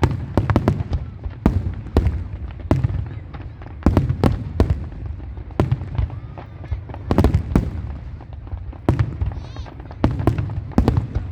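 Fireworks display: a rapid, irregular string of sharp bangs, several a second, over a constant low rumble of distant bursts.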